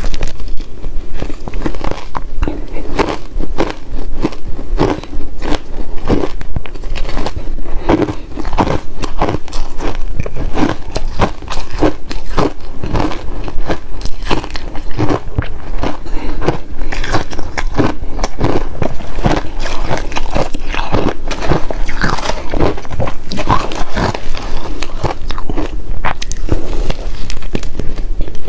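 Ice cubes being bitten and chewed close to the microphone: a steady run of sharp, irregular crunches and cracks.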